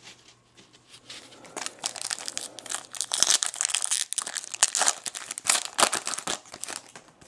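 Foil baseball card pack wrapper being torn open and crinkled in the hands, a dense run of irregular crackles that starts about a second and a half in.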